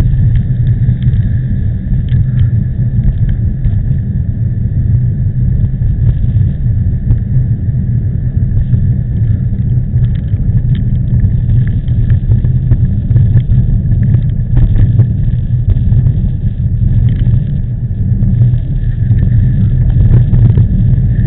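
Strong wind buffeting the microphone of a bicycle-mounted camera while riding, a loud steady low rumble.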